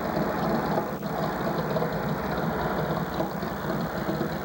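An engine running steadily at idle, with a brief click about a second in.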